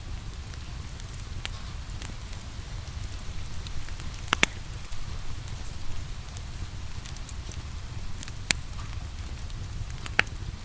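Wood fire crackling in a fireplace over a steady low rumble and soft rain hiss, with three sharp pops standing out: one a few seconds in, one past the middle and one near the end.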